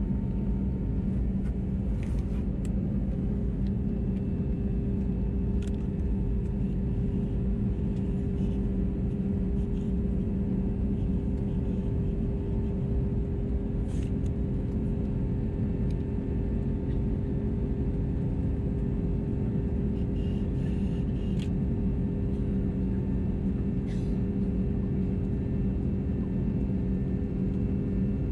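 Airbus A321neo in flight, heard from inside the cabin at a window seat: a steady, unchanging rumble of engine and airflow with a constant hum, and a few faint ticks.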